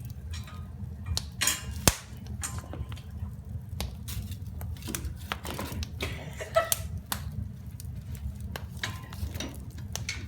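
Wood fire crackling over a low steady rumble, with irregular small pops and one sharp crack about two seconds in.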